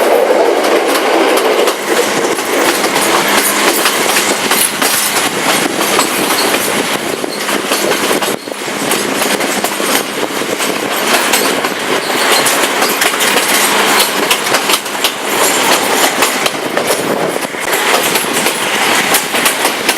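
Passenger train running at speed, a loud steady rushing and rattling with the wheels clicking irregularly over the track.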